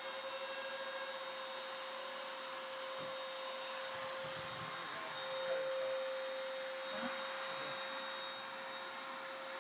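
Steady whirring of a small motor with one constant hum-like tone and a hiss over it.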